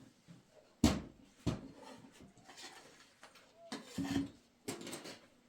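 A few separate knocks and clatters of objects being handled, the loudest about a second in.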